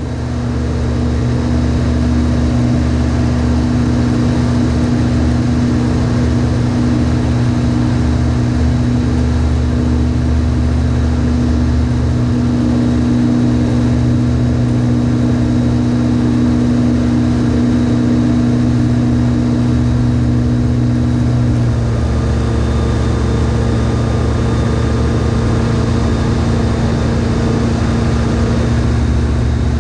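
Just Aircraft Highlander's piston engine and propeller droning steadily, with the engine note shifting slightly about two-thirds of the way through.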